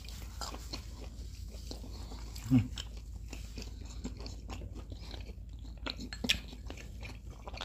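Close-miked chewing and biting of pan-fried green onion pancake, with many small wet clicks of mouth and food. There is a brief low hum about two and a half seconds in, and a sharper click a little after six seconds.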